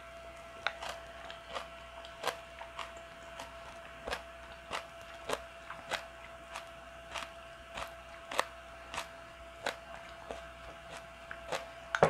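Close-up chewing of a mouthful of bean-sprout and carrot porridge: soft wet mouth clicks at an even pace of about one every half second, over a faint steady hum.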